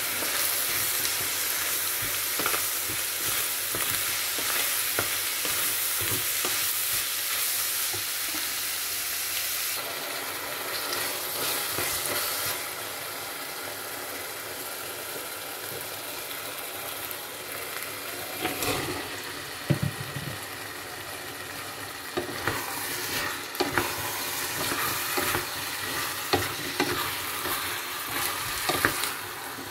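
Ground beef with diced red pepper sizzling in a stainless steel pot while a wooden spoon stirs and scrapes it; the sizzle grows quieter about a third of the way in. From about two-thirds of the way through come scattered knocks and clatters as cubed raw potatoes go into the pot and are stirred in.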